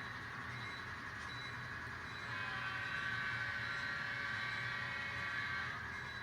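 N scale model diesel locomotives running with a steady grinding whine as their wheels slip and spin on the track. It grows louder about two seconds in and eases off near the end.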